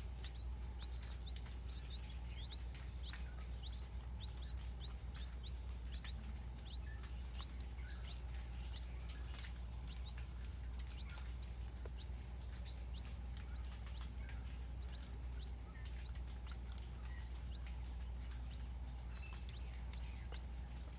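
Small birds giving short, high chirps in quick succession, thick over the first several seconds, then thinning to scattered calls, with one louder call near the middle. A steady low hum lies underneath.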